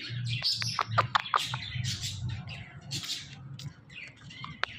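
Indian ringneck parrot chirping: a string of short, sharp chirps and clicks, coming quickly in the first couple of seconds and more sparsely after.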